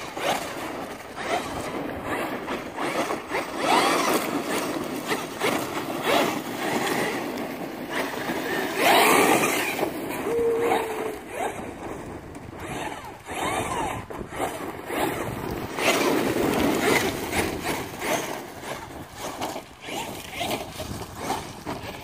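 Electric RC monster truck running on dirt: its brushless motor whines up and down with the throttle over tyre and gravel noise, with short knocks, and louder surges about nine seconds in and again near sixteen seconds.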